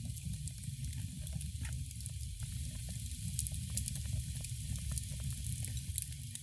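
Wood fire crackling in a fireplace: many small, sharp, irregular pops over a low, steady rumble.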